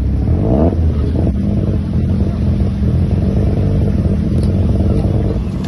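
Sports car engines pulling away at low speed. First the supercharged V6 of a Lotus Exige Sport 350 revs up about half a second in. Then the V8 of a Mercedes-AMG C63 S Estate runs with a deep, steady note.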